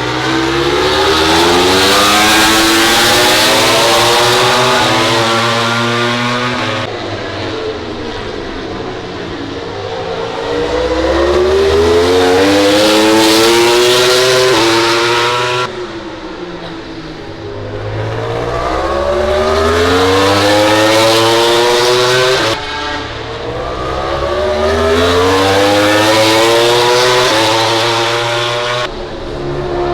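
MotoGP racing motorcycles accelerating hard, the engine pitch climbing in steps as they upshift through the gears, four times, each run ending abruptly. Loud throughout.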